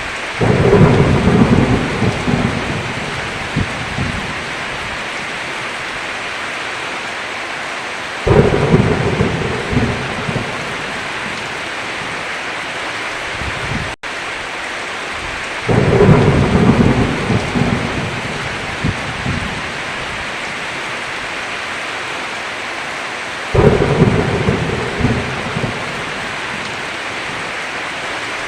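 Steady heavy rain on a roof, with four rolls of thunder about eight seconds apart, each rising suddenly and rumbling away over a few seconds. The sound drops out for an instant about halfway through.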